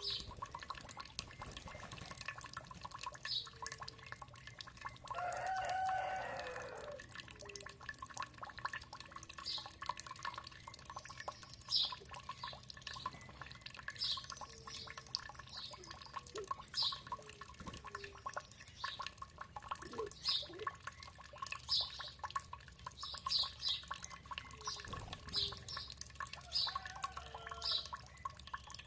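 Water dripping with many short, high bird chirps scattered throughout. A longer low bird call lasting about two seconds comes about five seconds in, and a fainter one near the end.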